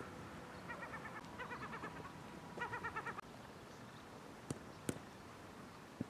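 A bird calling faintly in three quick runs of rapidly repeated notes, followed about a second later by two sharp knocks a little under half a second apart.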